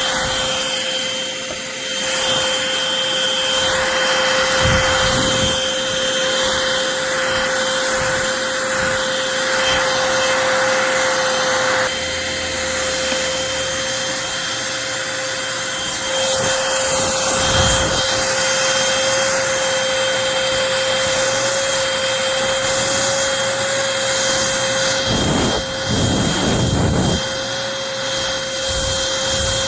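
Eureka Blaze cordless stick vacuum running steadily with a constant high motor whine and suction hiss, with a few low bumps, a cluster of them near the end.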